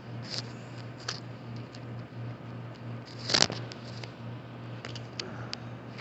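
A steady low hum with scattered small clicks and ticks. A single brief, louder rustle or knock comes about three and a half seconds in.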